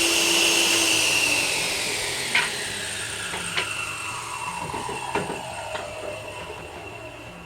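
Power saw winding down after a cut: its motor and blade whine falls steadily in pitch and fades as it coasts to a stop. A few light knocks of wood are heard along the way.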